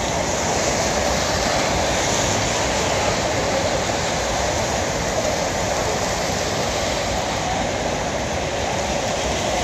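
Heavy rain falling on a city street, a steady hiss, with tyres of passing cars and a bus running on the wet road.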